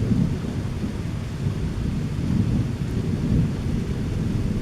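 Thunder rumbling low and continuously from a strong thunderstorm, over the sound of rain falling.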